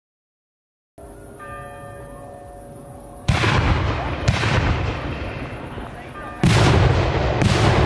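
Church bells ringing faintly in the distance, then aerial firework shells fired from mortars: four sharp, loud launch bangs, each trailing off over about a second. The first comes a little over three seconds in, the second a second later, and a close pair near the end.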